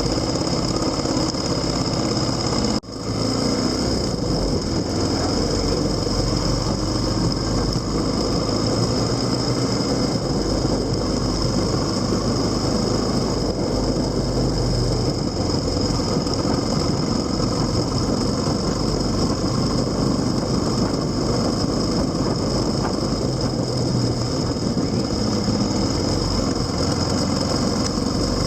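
Steady running noise of a vehicle on the move, continuous throughout, with a brief drop in the sound about three seconds in.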